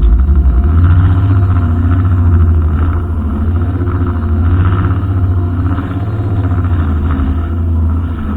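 Brushcutter engine running continuously, its pitch wavering gently up and down as the engine speed shifts while it works.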